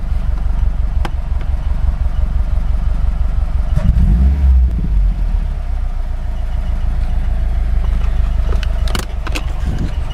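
A 2008 Subaru boxer engine running at idle with a steady squeal, briefly revved about four seconds in. A few sharp clicks are heard near the start and near the end.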